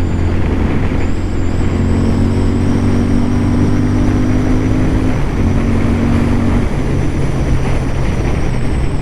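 Royal Enfield Continental GT 650 parallel-twin engine running steadily under way, heard through a helmet-mounted microphone with heavy wind noise. The engine note drops to a lower pitch about two-thirds of the way through.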